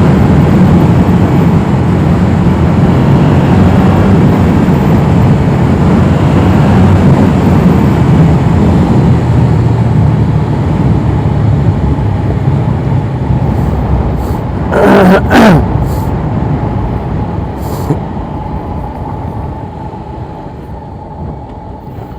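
Yamaha R7 motorcycle being ridden, its engine running under heavy wind noise on the rider's microphone. About fifteen seconds in there is a brief loud sound that falls in pitch. Near the end the sound grows quieter as the bike slows.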